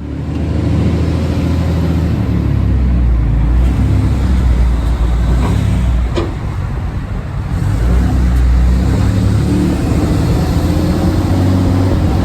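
Dodge Ram 3500 dually pickup driving while towing a loaded gooseneck trailer: a steady low engine drone with road noise, the engine pitch shifting slightly partway through.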